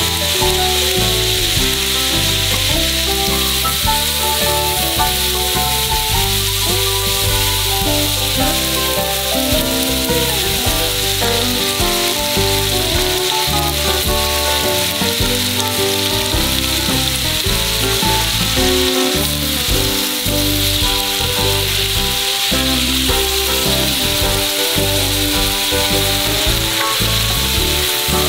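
Beef cubes and vegetables sizzling steadily in a hot cast-iron skillet as sauce is poured over them, with stirring toward the end.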